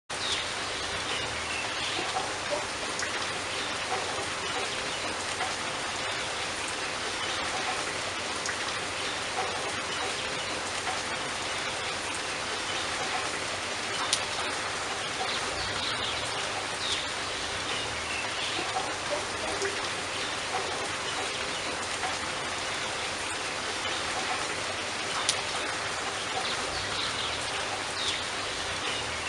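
Steady rain falling, with individual drops pattering and ticking on a surface; a few louder single drops stand out, around the middle and later on.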